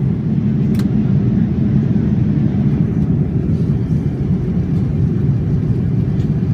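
Steady low rumble of a Boeing 787-9's engines and airflow heard from inside the passenger cabin, with a faint click about a second in.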